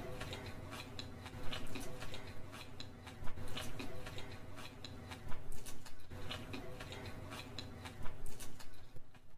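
Close-miked eating sounds added in editing rather than recorded live: irregular sharp clicks and crackles of chewing, coming in clusters every couple of seconds, over a steady low hum.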